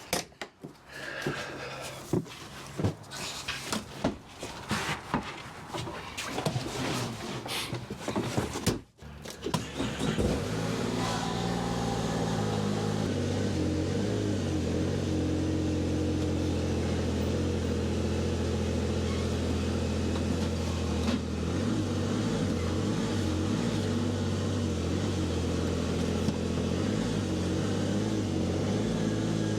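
Scattered knocks and clicks for several seconds. Then, about ten seconds in, a car engine starts up and keeps running steadily, the car that is about to be backed out of the trailer.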